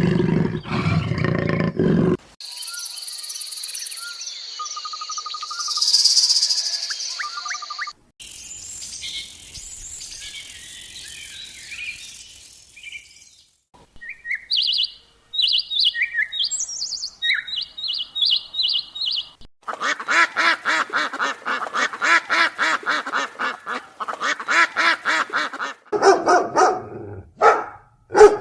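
A run of separate animal recordings. The end of a big cat's roar comes first, then birds chirping and calling, with high, thin notes and short chirps. From about two-thirds of the way in there is a long, fast, evenly pulsed animal call, and near the end some louder calls.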